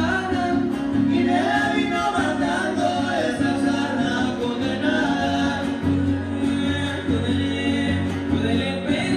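A huasteco trio playing a son huasteco live: violin melody over strummed jarana and huapanguera, with singing.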